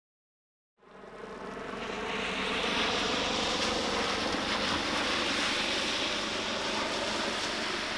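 A motor vehicle running close by: a dense engine-and-road noise that swells over about two seconds and then holds steady.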